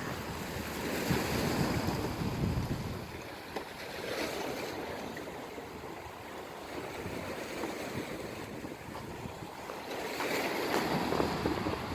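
Ocean waves washing onto the shore, with wind buffeting the microphone. The surf swells in the first few seconds and again near the end, and is quieter in between.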